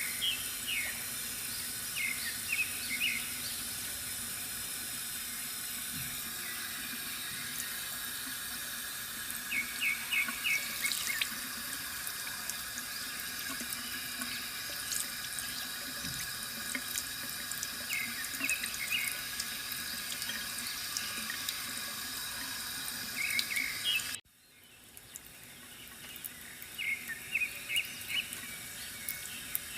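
Water from a bamboo fountain trickling steadily, with small birds giving short bursts of quick chirps every few seconds. About four-fifths of the way through, the water sound cuts out abruptly and fades back in over a few seconds.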